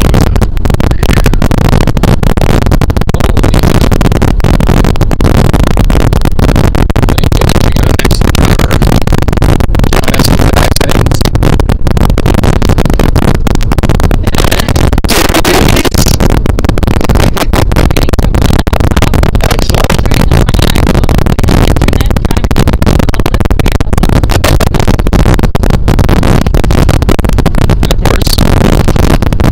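Loud, constant, heavily distorted noise pinned near full scale, with many brief dropouts: a badly clipped, faulty audio track with no clear sound behind it.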